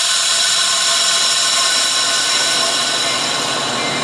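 Passing train giving a loud, steady, high-pitched metallic squeal made of several held tones.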